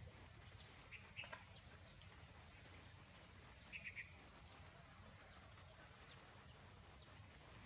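Near silence over a low steady hum, broken by a few faint bird chirps: a short pair about a second in, thin high peeps near two and a half seconds, and a quick run of three about four seconds in.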